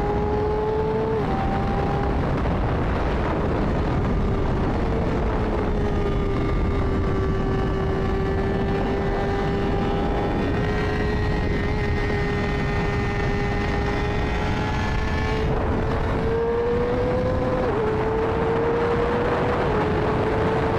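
Honda CBR600RR inline-four running through an MIVV Suono slip-on exhaust while being ridden, its engine note held at a fairly steady pitch over a constant rush of noise. The note steps in pitch a few times: about a second in, around five seconds, and twice near the end.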